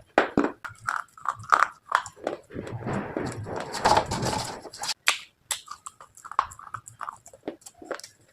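Close-miked biting and chewing of hard slate pieces: a string of sharp crunches and cracks, with a denser grinding crunch about three to four seconds in.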